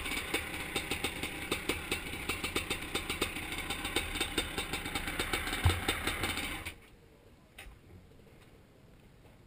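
Zabel 700 two-stroke sidecar motocross engine idling with an uneven, popping beat and a thump just before it stops. About two-thirds of the way in the engine cuts out suddenly, leaving near quiet broken by a single click.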